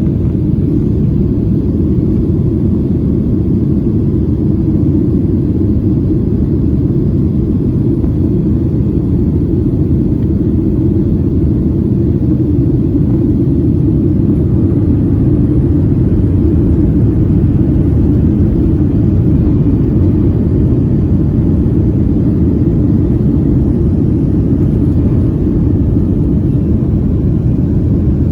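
Steady cabin noise of a Boeing 737 in flight: an even, low rumble of the jet engines and the air rushing past the fuselage.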